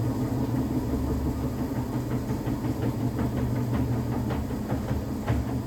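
Ipso commercial washing machine running with a steady drum-and-motor hum, and irregular short knocks or splashes that come more often from about two seconds in. The drum bearings are worn and, by the owner's account, getting louder.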